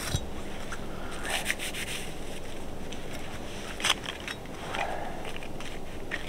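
Irregular rubbing and scraping with scattered small clicks, one sharper click about four seconds in.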